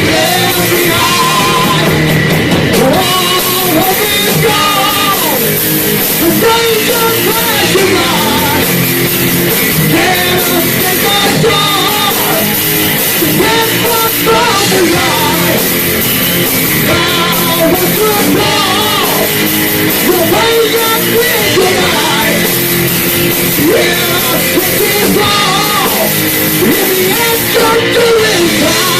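Live heavy metal band playing loud and steady, with a singer's voice over guitars and drums.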